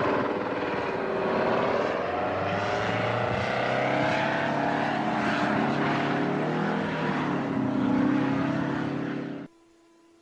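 V-22 Osprey tiltrotor's engines and proprotors running loudly in flight, their pitch wavering and sliding up and down. The sound cuts off suddenly near the end, leaving a faint hum.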